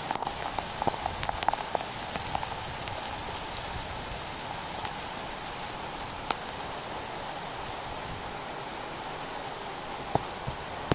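Heavy rain falling steadily, with a cluster of sharp drop taps close by in the first couple of seconds and single taps about six and ten seconds in.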